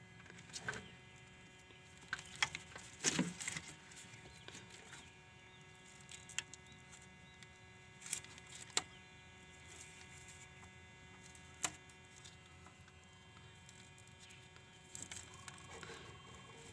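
Scattered light clicks and taps from hands working the wiring and connector of a diesel engine's three-wire rail pressure sensor, over a faint steady hum.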